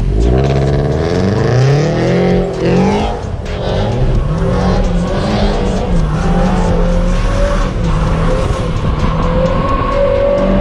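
A car engine revving, heard from inside a moving car's cabin. The revs climb over the first few seconds, break off briefly about three seconds in, and then keep rising and falling.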